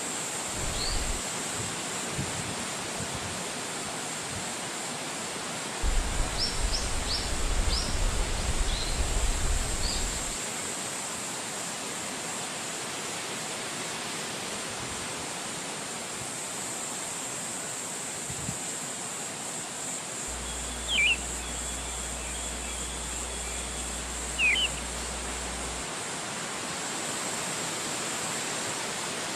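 Steady rushing of wind through a forest, with a few short bird chirps scattered through it and a low rumble of gusts for a few seconds near the start.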